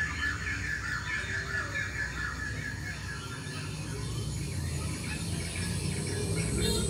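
Small birds chirping: a quick run of high chirps over the first few seconds, then fainter calls, over steady low background noise.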